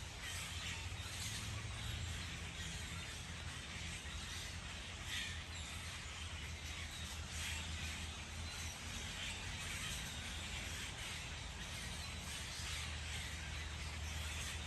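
Outdoor backyard ambience: a steady low rumble under a high hiss, with faint short bird chirps scattered through it.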